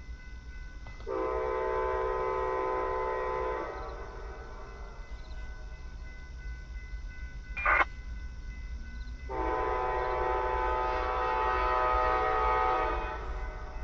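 Amtrak locomotive air horn sounding two long blasts of a multi-tone chord as the train approaches a grade crossing, with a brief sharp burst of noise between them.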